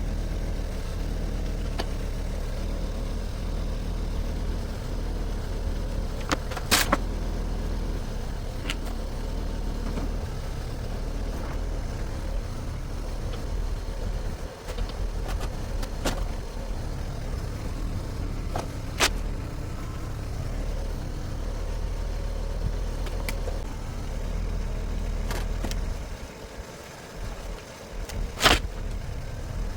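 Shantui STE35SR mini excavator's engine running steadily, with several sharp cracks and knocks from the old barn being torn down. The loudest come about seven seconds in and near the end. The engine drops lower for a couple of seconds just before that last one.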